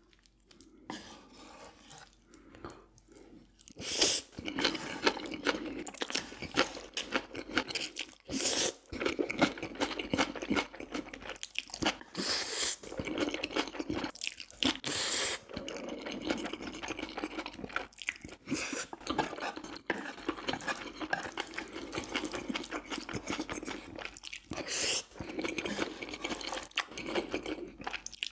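Close-miked eating: chewing and crunching of food, faint for the first few seconds, then steady chewing from about four seconds in, broken by several louder crunchy bites.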